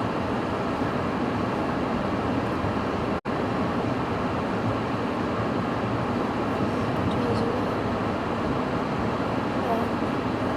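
Steady roar of storm wind and rough sea with waves breaking, cutting out for an instant about three seconds in.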